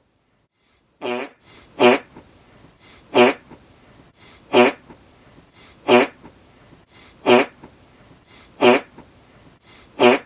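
Fart noises made by blowing a raspberry against the forearm, repeated about eight times at a steady pace, roughly one every second and a half.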